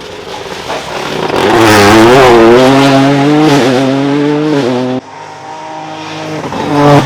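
Rally car engine at full throttle as the car approaches and passes, loud for a few seconds with its pitch rising and dipping through throttle and gear changes. The sound cuts off suddenly about five seconds in, and another rally car engine then builds up, louder near the end.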